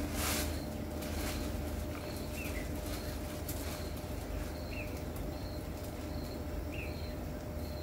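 Outdoor ambience with a bird giving short, repeated chirps every second or two, over a low steady rumble.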